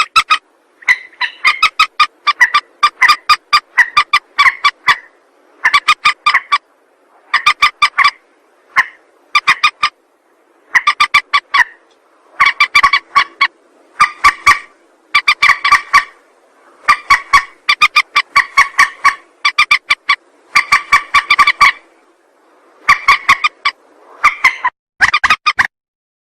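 Recorded lure calls of a mandar, a rail-family waterbird: repeated bursts of rapid, sharp cackling notes, each burst about a second long, with short pauses between bursts.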